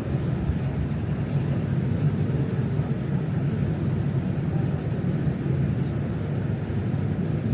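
Steady low rumble of a passenger boat's engine, heard on board.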